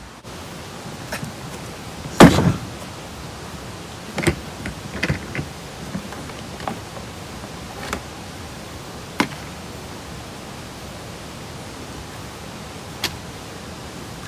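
A steady hiss of outdoor background noise, broken by scattered sharp knocks and clicks, the loudest about two seconds in.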